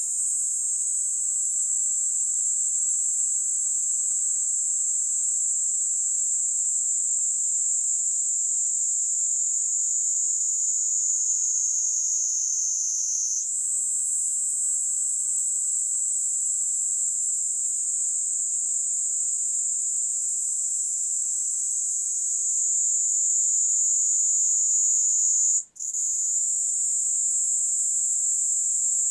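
Kaempfer cicada (Platypleura kaempferi) singing: a continuous high, shrill buzzing drone that slowly sinks in pitch, jumps back up about halfway through, and breaks off for an instant near the end before carrying on.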